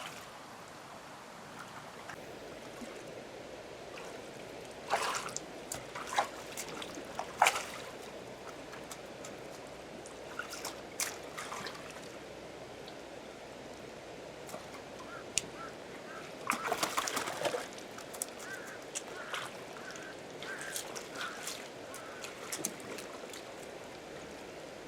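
Water splashing and sloshing in irregular bursts, with a louder cluster about seventeen seconds in.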